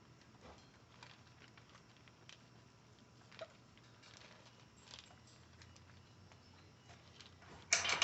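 Puppies moving about, faint scattered patter and small claw clicks, with a brief louder scraping noise near the end.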